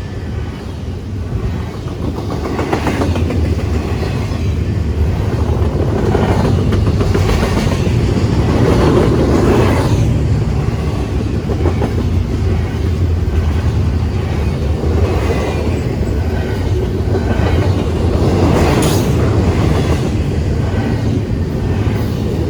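Freight train rolling past: a steady rumble of wheels on rail, with clickety-clack as the wheels cross rail joints. It grows louder over the first few seconds, then holds steady.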